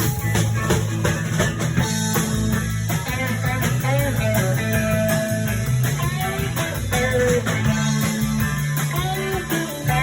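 Instrumental break in a blues song: guitar playing bending melodic lines over sustained low bass notes.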